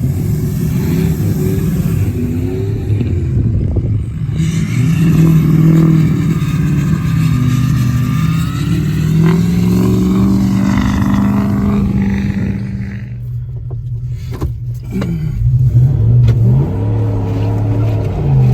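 Car engines revving as cars drift in the snow, the engine pitch climbing and falling again and again, with a fresh rev sweeping up about fifteen seconds in.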